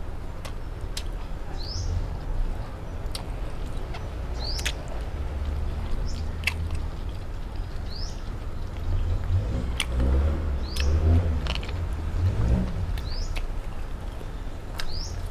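A bird repeating one short rising chirp about every one and a half to two seconds, over a steady low rumble.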